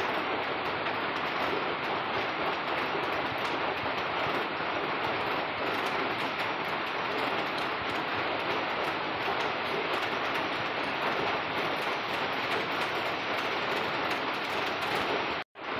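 Steady drizzle falling, a dense, even patter of fine drops. It breaks off for an instant near the end.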